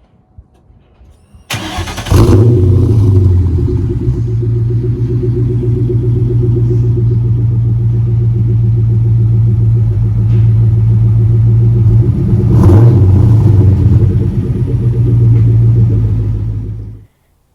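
2002 Ford Mustang GT's 4.6-litre two-valve V8, running through a fully replaced exhaust, starts up about a second and a half in and settles into a loud, steady idle. The engine rises briefly about thirteen seconds in, and the sound cuts off suddenly near the end.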